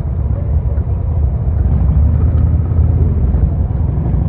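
Royal Enfield Interceptor 650's parallel-twin engine running under way, a steady low rumble that holds an even pitch and level.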